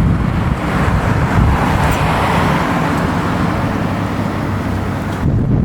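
A car driving past, its engine and tyre noise swelling and fading, over a steady low rumble; the sound changes abruptly near the end.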